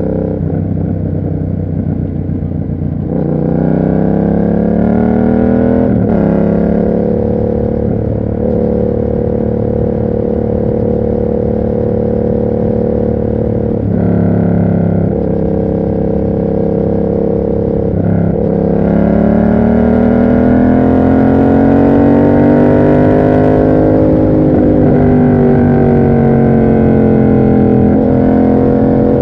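Yamaha MT-07's 689 cc parallel-twin engine through an SC Project exhaust, under way. It revs up about three seconds in and shifts gear, holds steady cruising revs, drops back, then climbs slowly to a peak in the second half before easing off. A low rumble of wind and road noise runs underneath.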